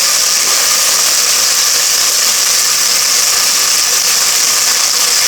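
Chicken pieces sizzling steadily in hot oil in a pan as they brown.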